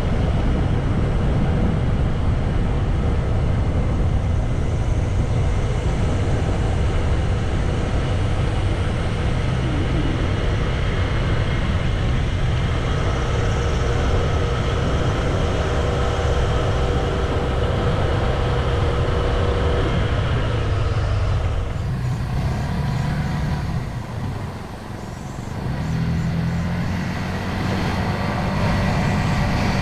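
Water pouring down Minoo Falls: a loud, steady rush of falling water that eases for a few seconds a little over twenty seconds in.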